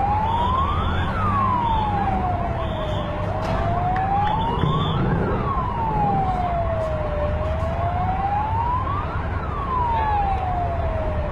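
Emergency-vehicle siren wailing in a slow rise and fall, one cycle about every four seconds, over a steady low rumble of background noise.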